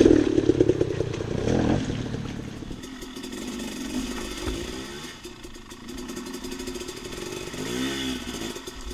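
Dirt bike engine running under throttle, louder and revving over the first couple of seconds, then settling to a lower, steadier run, with a brief rev and drop near the end.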